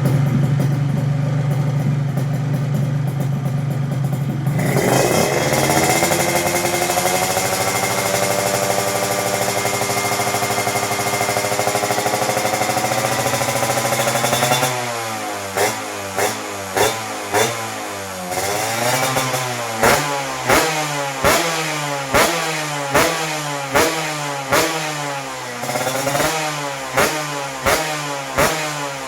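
Motorcycle engine through an aftermarket exhaust idling, then revved up about four seconds in and held at high revs for roughly ten seconds. Throttle blipped repeatedly after that, about one sharp rise and fall per second.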